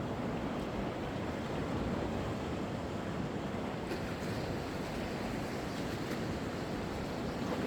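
Sea waves washing onto the shore, a steady surf wash with no single break standing out.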